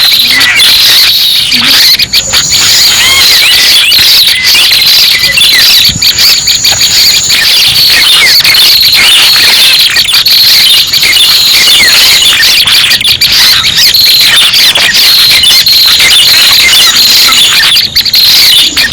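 Red-headed prenjak calls played as a bird-trapping lure: loud, dense, quick chirps and twitters, with a steady high whine running underneath.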